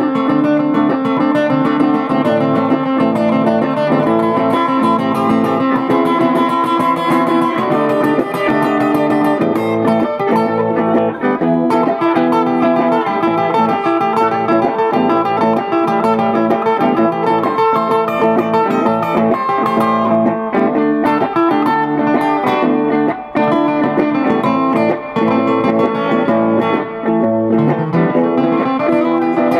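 Guitars playing a blues, plucked and strummed steadily.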